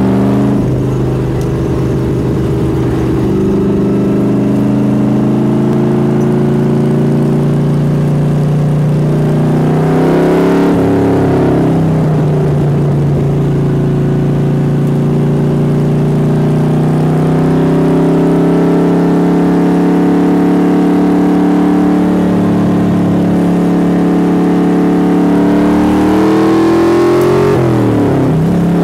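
Cheetah racing car's V8 engine at full throttle on track, its note climbing in long pulls. The revs drop sharply twice, about ten seconds in and near the end, before rising again.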